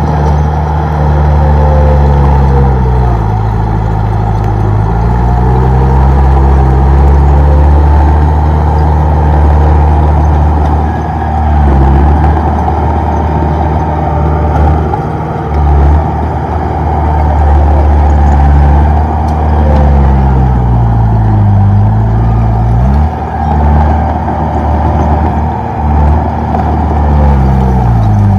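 Komatsu D31P bulldozer's diesel engine running hard, its pitch sagging and then recovering several times as the engine is loaded down by the pushing blade.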